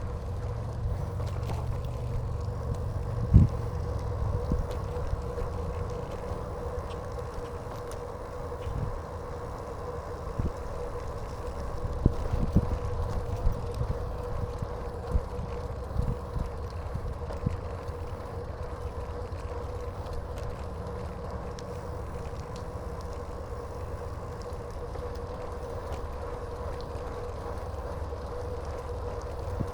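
Bicycle riding along a path: a steady low rumble of tyres and wind, with scattered knocks from bumps and a faint steady whine throughout.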